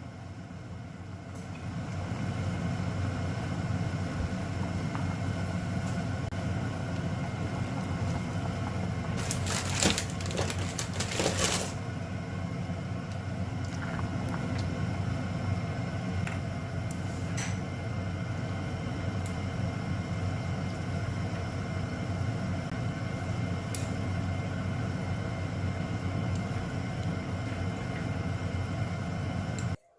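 A steady machine hum with several fixed tones, starting and stopping abruptly. A brief rapid clatter of clicks comes about ten seconds in, with a few single ticks later.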